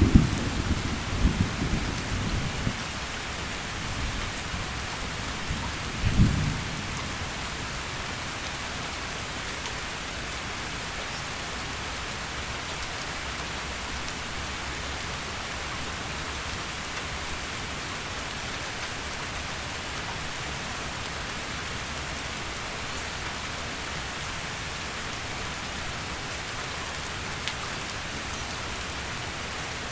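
Heavy rain falling steadily, with a thunder rumble dying away in the first couple of seconds and a short rumble of thunder about six seconds in.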